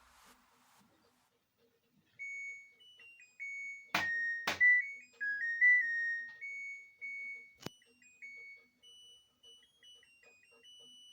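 Electronic beeper of an LG front-load washing machine playing its short melody of pure, stepped beeps, with a few sharp clicks, two close together and one a few seconds later.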